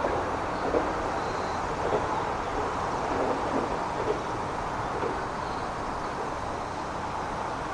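Train running through the station at steady speed without stopping: a steady rumble of wheels on rail with a few sharper knocks in the first half, slowly easing off toward the end.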